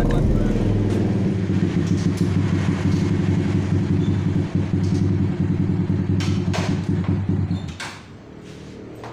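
Motorcycle engine running at a steady idle with an even, fast pulse, switched off about eight seconds in, when it stops abruptly.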